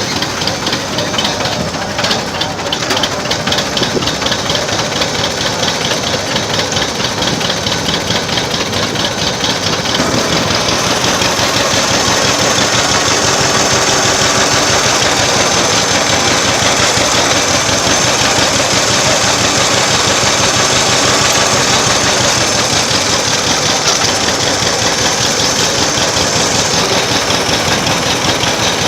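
Old tractor engine running steadily with a rapid, even firing beat; it gets a little louder about ten seconds in.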